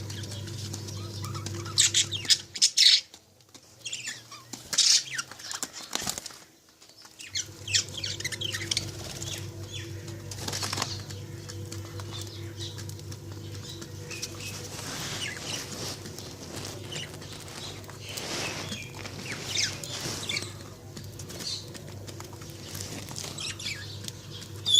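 Lovebirds chirping and fluttering their wings, with short high chirps scattered throughout. Under them runs a steady low hum that drops out for about five seconds, a couple of seconds in.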